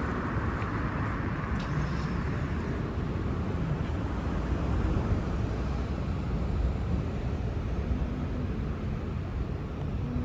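Road traffic noise: a steady rush of tyres and engines. A passing vehicle fades away over the first second or two.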